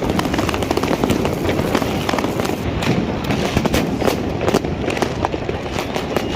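New Year's Eve fireworks and firecrackers going off all around: a dense, continuous crackle of many sharp bangs, several a second, with no pause.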